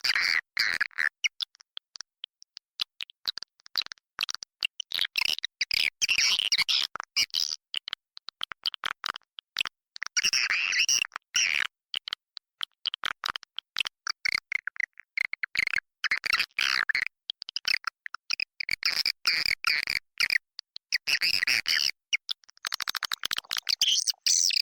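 Swiftlets calling inside a swiftlet house: rapid clicking twitters and buzzy chirps in runs of a few seconds, separated by brief silences. This is a swiftlet lure call, the kind of recording played to draw swiftlets in to roost and nest.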